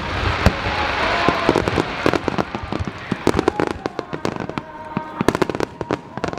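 Aerial fireworks bursting in quick succession: many sharp bangs, with a dense crackling hiss about a second in, over music with held notes.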